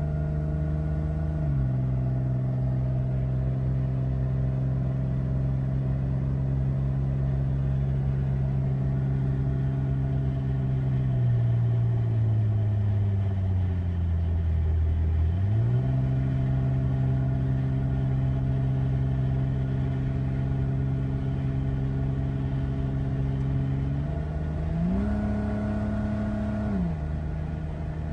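The 2005 Jeep Wrangler TJ's 4.0-litre inline-six is running under way on the highway, heard from inside the cabin along with road noise. Its note steps down about a second and a half in, sags slowly, then jumps back up, and rises again briefly near the end before dropping. These pitch changes follow the automatic transmission's gear changes and changes in throttle.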